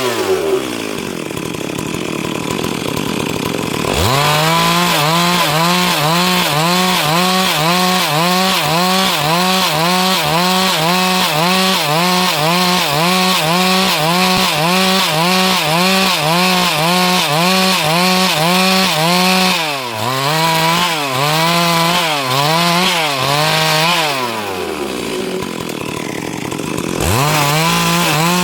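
Stihl MS382 two-stroke chainsaw running at high revs while cutting wood, its engine pitch wavering in a quick, even rhythm under the load of the cut. It falls back toward idle just after the start, revs up again about four seconds in, dips briefly around twenty seconds, and drops off again near the end before revving back up.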